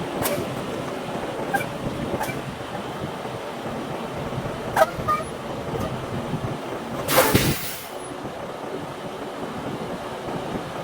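Semi truck running with several sharp clicks and knocks, and one short burst of hiss about seven seconds in.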